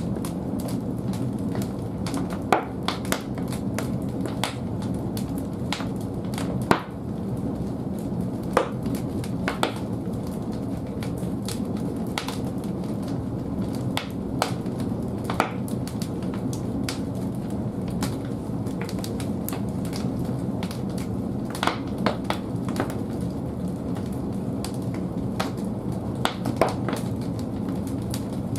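Large firewood logs burning in a wood-fired boiler's firebox: a steady low rumble of flame with sharp crackles and pops at irregular moments.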